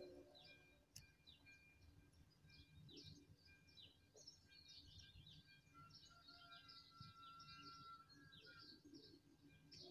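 Faint birdsong: small birds giving many short, repeated downward chirps.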